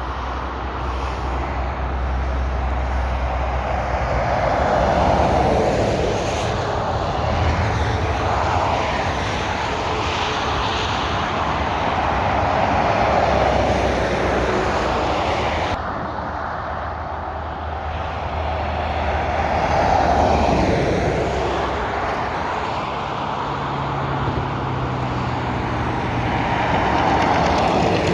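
Motorway traffic passing close by, trucks and cars with tyre and engine noise swelling and fading as each one goes past, about five loud passes in all, one with a falling pitch sweep about twenty seconds in.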